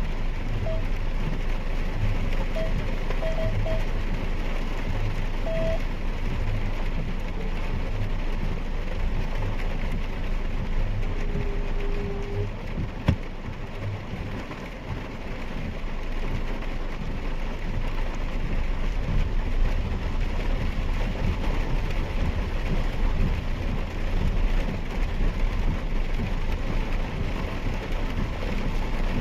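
Rain on a Mahindra XUV 3XO and wet-road tyre noise heard from inside the cabin while driving, over the low hum of its 1.2-litre three-cylinder turbo petrol engine. There is a single sharp click about 13 seconds in.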